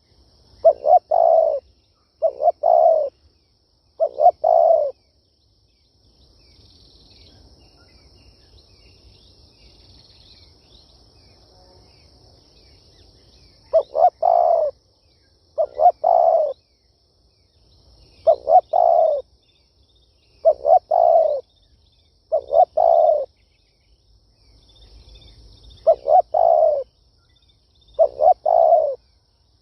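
Spotted dove cooing: a series of short, loud, multi-note coo phrases, three in the first five seconds, then a pause of about nine seconds, then seven more about two seconds apart. It is the kind of calling song used to rouse decoy doves for trapping. Faint high chirping runs behind it.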